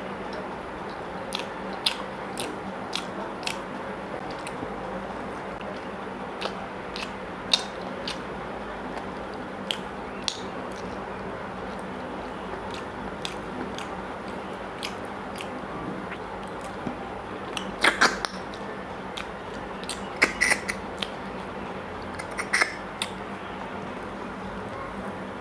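Close-miked eating sounds of a man eating mutton curry and rice with his fingers: chewing with short, sharp, wet mouth clicks and smacks, and a cluster of louder ones in the last third, over a steady low hum.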